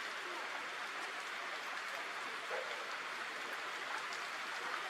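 Steady rain hissing, with a few faint short squeaks mixed in.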